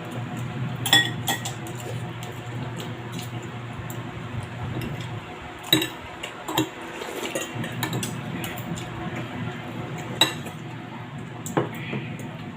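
Cutlery clinking against dishes during a meal, in scattered sharp clicks, the loudest about a second in, near six seconds and about ten seconds in, over a low murmur.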